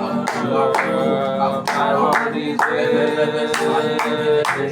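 Live gospel worship music: held keyboard and guitar chords under voices singing, with sharp hits on a steady beat about twice a second.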